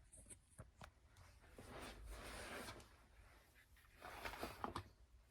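Faint handling noises of the fan or its box being moved: a few light clicks and knocks, a soft rustling swell about two seconds in, then more clicks near the end.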